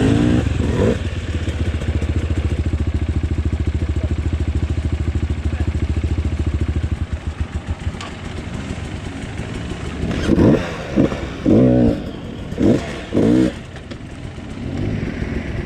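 Off-road motorcycle engine idling steadily, then faltering and dying away about seven seconds in. A few seconds later come four or five short revs, each rising and falling in pitch.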